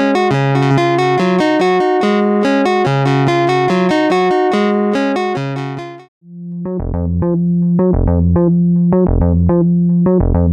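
Modular analogue synth voice (AJH Synth MiniMod) playing a quick stepped melody from a Vermona meloDICER sequencer. About six seconds in it cuts off for a moment, and a new, duller-sounding pattern with lower bass notes starts.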